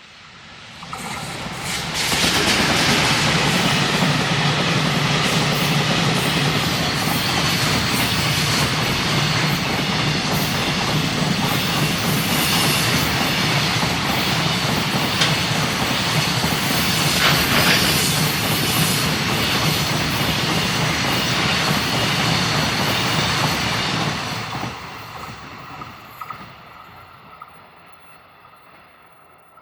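Container freight train passing at speed, its wheels running over the rails. The noise builds over about two seconds, holds steady for about twenty seconds as the wagons go by, then fades away.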